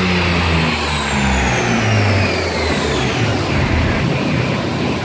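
BMW M4's twin-turbo straight-six running through a prototype BMS exhaust on a chassis dyno, winding down after a pull: a high whine falls steadily in pitch over the first three seconds over the low, uneven engine note.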